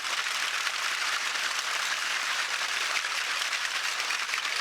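Homemade chimes of empty plastic Danoninho yogurt pots strung on cord, shaken so the pots clatter against one another in a steady, dense rattle of many small ticks.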